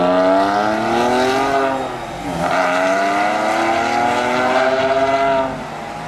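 Supercharged Porsche 911 (997 S) flat-six accelerating away up the track: the engine note rises, dips briefly at an upshift about two seconds in, then climbs again through the next gear. Near the end the note drops away.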